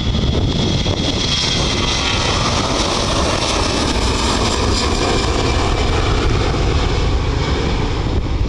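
Jet airliner engines running loud and steady as a plane passes, with a faint high whine that slowly falls in pitch.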